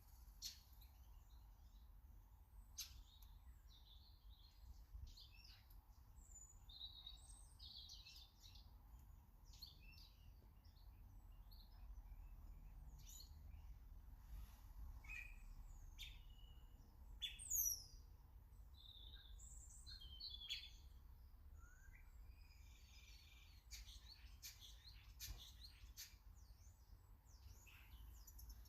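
Garden birds calling faintly: many short chirps and twitters scattered throughout, with a few sharp ticks, and one louder downward-sweeping call about 17 seconds in.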